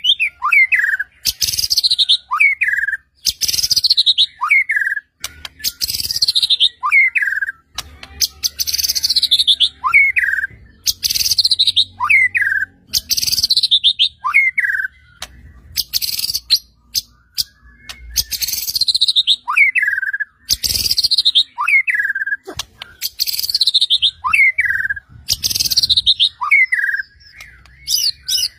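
White-rumped shama (murai batu) singing, repeating one phrase about every two seconds: a short falling whistle paired with a harsh, rasping note.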